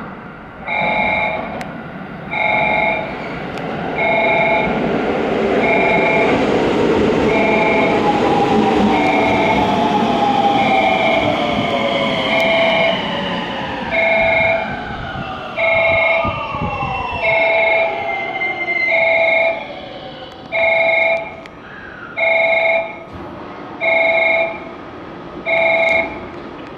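Electric train running into the platform, its motor whine falling steadily in pitch as it slows over about ten seconds. A repeating electronic warning chime sounds about every two seconds throughout.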